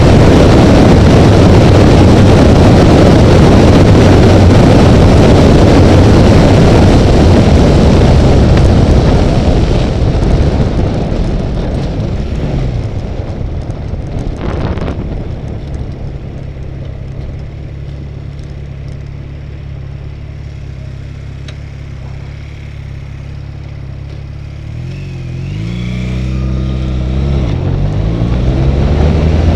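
Honda Rebel motorcycle on the freeway: loud wind rush over the engine, dying away over the first dozen seconds as the bike slows. The engine then holds a low, steady note for about ten seconds. Near the end it accelerates, its pitch rising twice as it shifts up.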